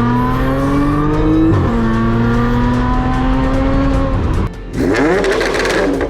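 Audi S4 B8.5 supercharged V6 exhaust on test pipes accelerating hard, with an upshift about a second and a half in and a second pull before the driver lifts off. It ends with a few quick throttle blips.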